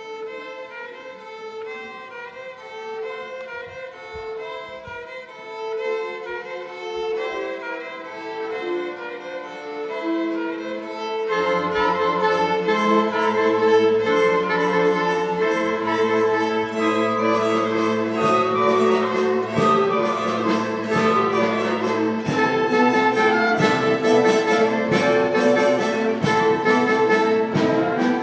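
Music from a string ensemble: a violin melody over light accompaniment, then about eleven seconds in the full ensemble joins with low strings and the music grows louder.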